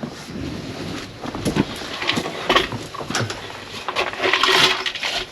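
Irregular clicks and knocks from hands-on work, with a longer stretch of scraping or rustling noise about four seconds in.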